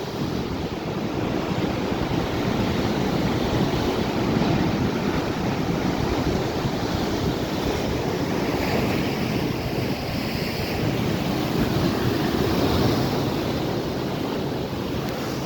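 Atlantic Ocean surf: waves breaking and washing in as a continuous noise that swells and eases slowly, with some wind on the microphone.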